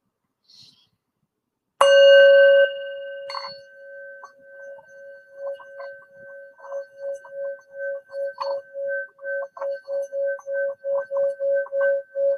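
Singing bowl struck once about two seconds in, then kept ringing as it is rubbed around the rim. The tone swells in pulses that grow quicker and louder toward the end.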